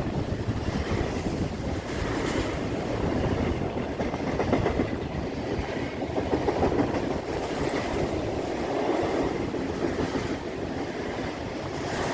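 Norfolk Southern freight train cars rolling steadily past on the track below, steel wheels on rail with a running patter of clicks.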